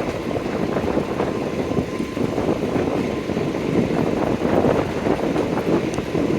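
Passenger train running along the track, heard from on board: a steady rumble with irregular rattling and clatter from the wheels on the rails, with some wind noise.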